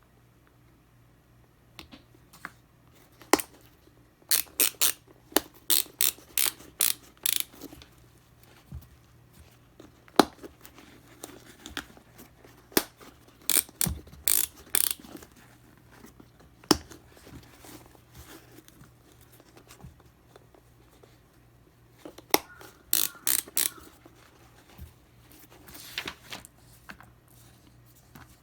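Dial-lacing ratchet on a shoe being turned. It gives three runs of sharp clicks, about four or five a second, with a few single knocks of handling between them.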